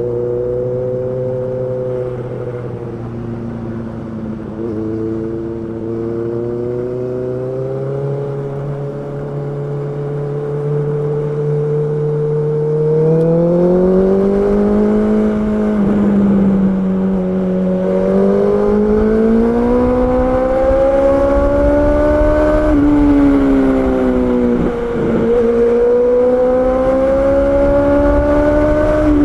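Honda CB650R's inline-four engine running under way: its pitch holds steady, then climbs as it accelerates, with two quick drops in pitch (about halfway and near the end) like gear changes. A low rumble, like wind on the microphone, grows in the second half.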